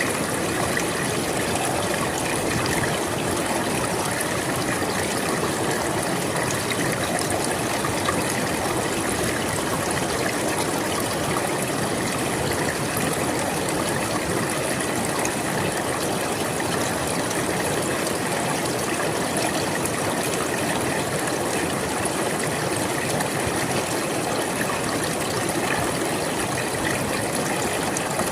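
River water flowing steadily: an even rushing hiss with no breaks.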